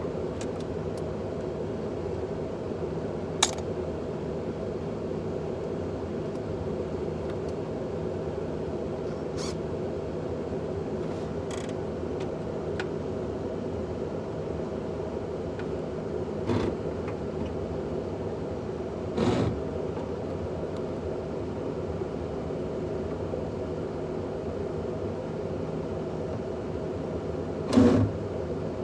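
A steady mechanical hum, with a handful of sharp clicks and knocks scattered through it; the two loudest knocks come about nineteen seconds in and near the end.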